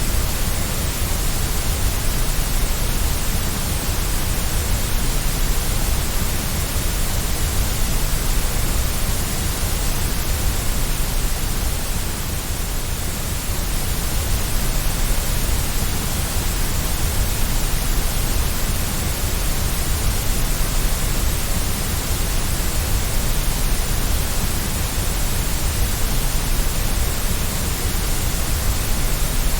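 Steady white noise for lulling a baby to sleep: an even, unbroken hiss with its weight in the low end.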